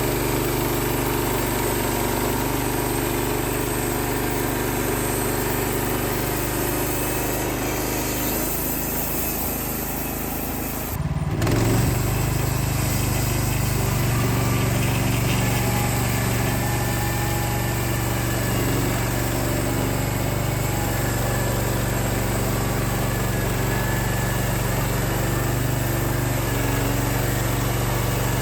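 Wood-Mizer LX55 portable sawmill's 14 hp engine running steadily, a small engine's hum. About eleven seconds in the sound dips briefly, then carries on at a slightly different pitch.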